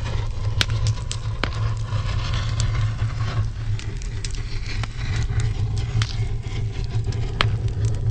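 Eucalyptus branches burning in a fireplace: a steady low rushing rumble of flame jetting from the oil-rich bark, with a hiss over it and sharp crackles and pops scattered throughout. The essential oil in the bark ignites as small flamethrower-like jets.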